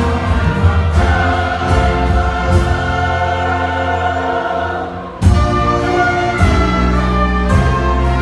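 Large church choir singing a hymn with orchestral accompaniment. About five seconds in, the music thins out briefly, then the full ensemble comes back in with a strong accent.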